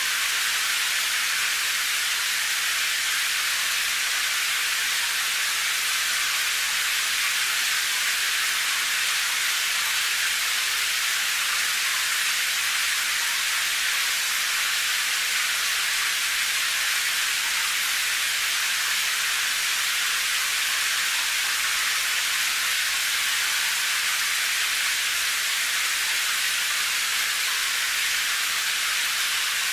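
Steady rain, an even hiss with no single drops or thunder standing out and little low rumble.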